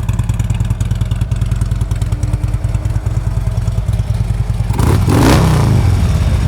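Harley-Davidson Road King's 103 V-twin idling through Vance & Hines mufflers, then the throttle is blipped once about five seconds in, a short rise in engine sound before it settles back to idle.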